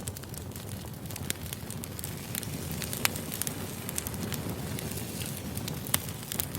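Wood fire burning: a steady low rumble of flames with irregular sharp crackles and pops from the firewood, a few louder snaps among them.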